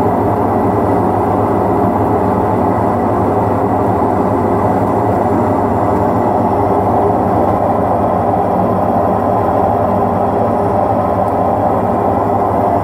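Bauknecht Super Eco 6412 front-loading washing machine in its spin cycle: a steady, very loud drone with a low hum and a faint high whine, loud almost like an aeroplane. The noise is far louder than a normal spin for a machine of its age.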